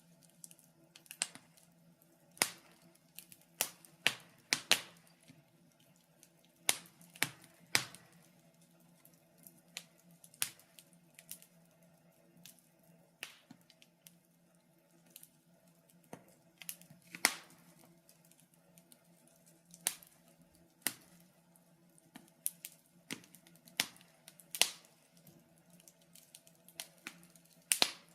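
Wood fire in a fireplace crackling, with irregular sharp pops and snaps, some much louder than others.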